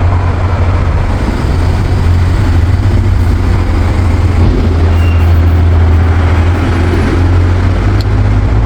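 Steady low rumble of motor traffic, with an engine hum running underneath.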